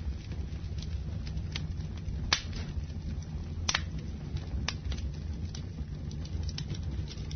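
Wood fire burning in a fireplace: a steady low rumble of flame with scattered sharp crackles and pops, the loudest about two seconds in.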